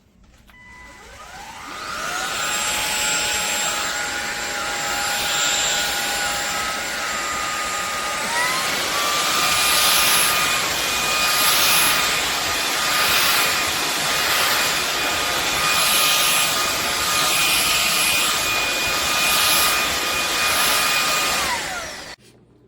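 SunSare X7A cordless stick vacuum cleaner running. Its motor whines up to speed over the first couple of seconds and shifts to a higher pitch about a third of the way in. It then holds steady over a rushing hiss of air until it winds down and stops near the end.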